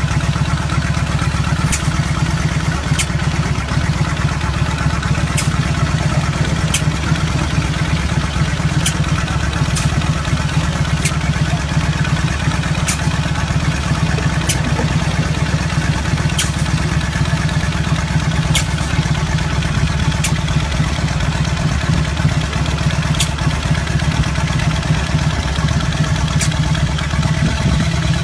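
Motorcycle engine running steadily at a low pitch, with a sharp click every one to two seconds.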